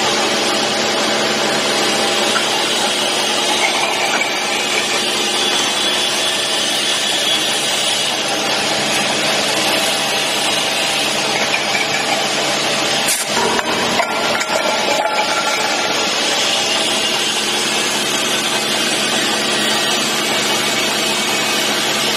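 Industrial can vacuum leak-testing machine running: a loud, steady mechanical noise with several held tones, briefly dropping with a few clicks about thirteen seconds in.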